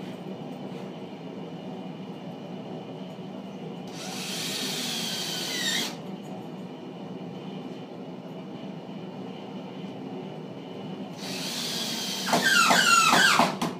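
Power drill driving coarse-thread metal tapping screws through linear rails into MDF: two runs of the motor, a short one about four seconds in and a longer, louder one near the end, its pitch sliding up and down as the screw drives home.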